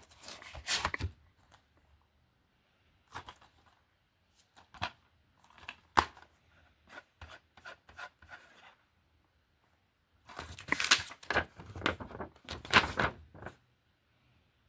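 Plastic DVD and Blu-ray cases being handled: irregular clicks, knocks and rubbing scrapes, with one sharp click about six seconds in and a longer run of sliding and rustling near the end.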